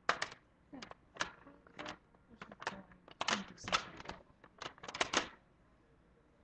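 An irregular run of sharp clicks and taps close to the microphone, some in quick clusters, stopping a little past five seconds in.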